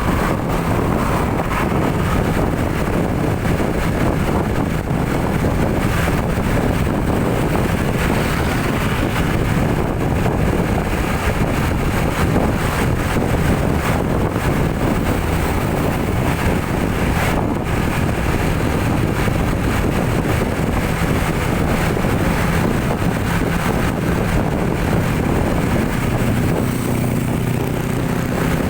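Steady vehicle engine and road noise while driving, with wind buffeting the microphone. Near the end a low engine hum comes through more clearly.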